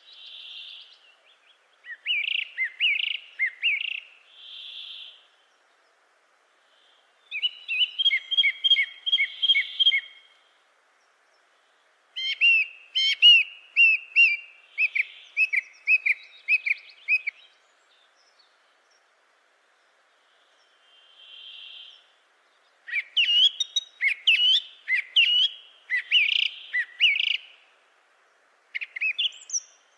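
A bird singing in phrases of rapid, high-pitched chirps and whistled notes. Each phrase lasts a few seconds, with pauses between phrases. Short, soft, breathy notes come in the gaps.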